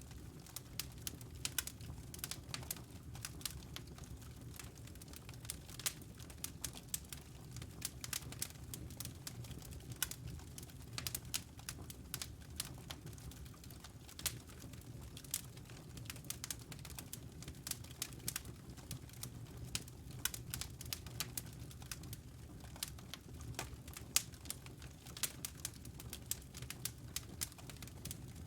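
Wood fire crackling, with dense irregular sharp pops and snaps over a steady low hum.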